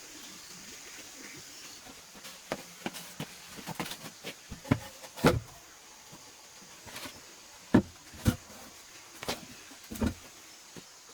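Irregular knocks and taps, starting about two seconds in and scattered unevenly, with a few louder thumps among them.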